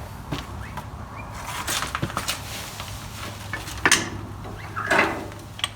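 Scattered clinks and knocks of hand tools and steel parts being handled during tractor lift-arm reassembly, with a sharp knock just before four seconds in, over a low steady hum.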